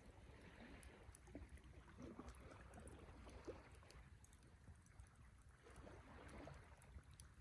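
Wood campfire burning quietly: faint scattered crackles and small pops over a low steady rumble.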